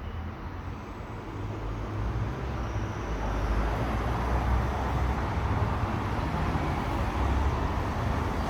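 Steady rushing wind and road noise from riding a bicycle, with a low rumble that grows louder over the first three seconds.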